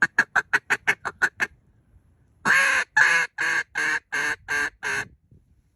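Duck call blown to sound like quacking ducks: a quick run of about nine short notes, then after a short pause seven longer, loud quacks at about three a second.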